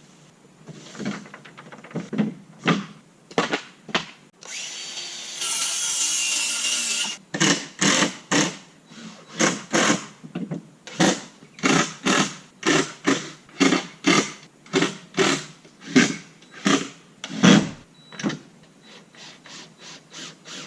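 A power drill runs for about three seconds, then a hammer strikes wood in a steady run of about two blows a second, driving nails into the coop's lumber.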